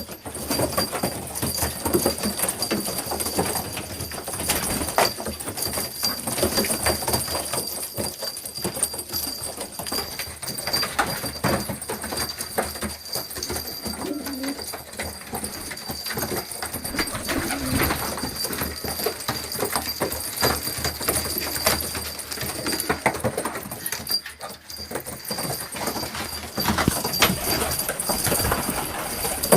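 Domestic pigeons cooing amid a steady run of small clicks and rustles, with a thin steady high tone in the background.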